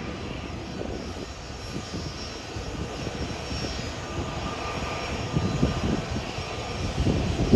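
Jet airliner engines heard at a distance, a steady rumble with a faint whine, as the aircraft climbs away under power after a go-around; it grows somewhat louder near the end.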